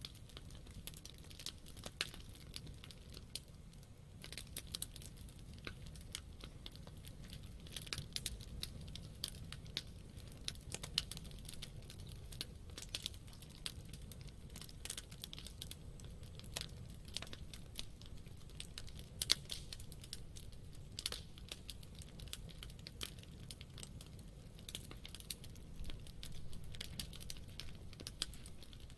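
Campfire wood burning, crackling with a constant stream of irregular small snaps and pops over a low steady rumble.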